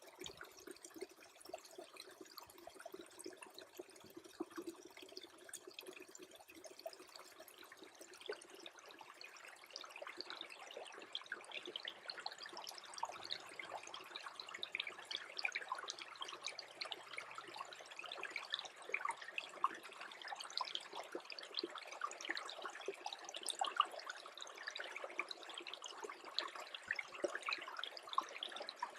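Small creek trickling as it freezes, with many tiny ticks and crackles over the flow that grow busier about ten seconds in.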